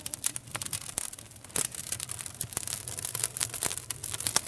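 Wood fire crackling, with frequent sharp, irregular pops and snaps.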